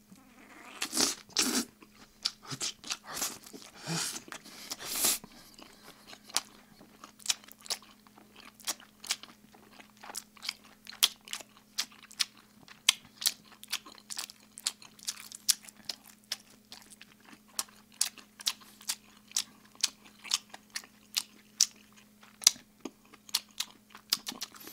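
A person chewing oven-baked chicken with an open mouth, making wet smacking clicks about two to three times a second, with a few louder bites in the first few seconds. The smacking is deliberately exaggerated for a mukbang.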